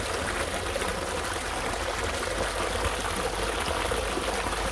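River water flowing steadily over rocks: an even, continuous rushing.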